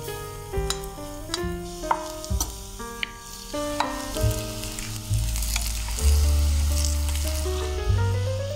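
Cauliflower fritters sizzling in shallow oil in a frying pan while a wooden spatula turns them, with a few light knocks of the spatula against the pan. Background music with a melody and bass notes plays over it, its bass loudest a little past the middle.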